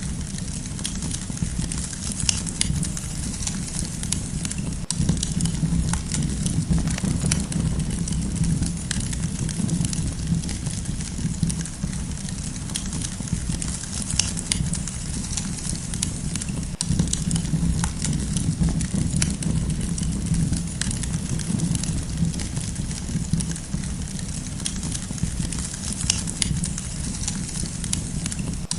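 Campfire crackling, with frequent sharp pops and snaps over a steady low rush of burning.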